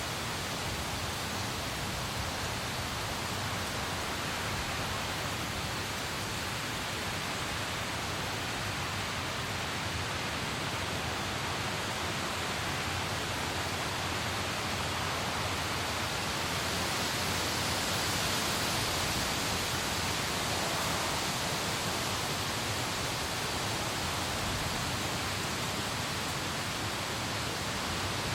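Steady rain falling, an even hiss that swells slightly a little past halfway.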